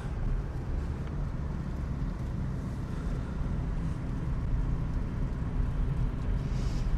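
Steady low rumble of engine and road noise heard inside a Subaru's cabin while it drives slowly on snow-covered roads.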